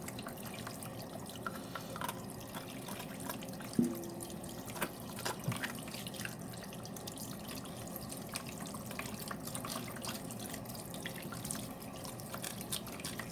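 Water running steadily from a tap into a sink, with scattered light clicks and scrapes of a small knife scaling fish, and one sharper knock about four seconds in.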